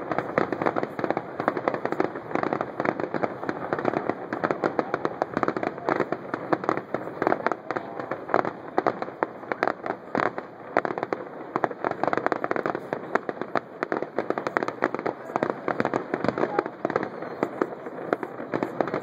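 Fireworks display going off: a dense, continuous stream of pops, crackles and bangs from bursting shells.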